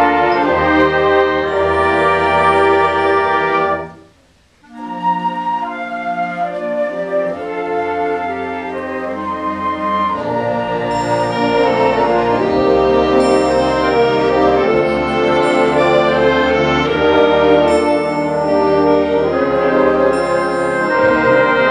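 Concert band of brass and woodwinds playing a slow, sustained arrangement. The band stops abruptly about four seconds in, comes back in softly after a short pause, and gradually swells louder.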